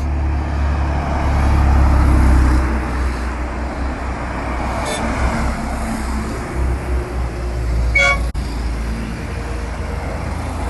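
Car engine rumbling as a car passes close, loudest about two seconds in, with a short car-horn toot about eight seconds in.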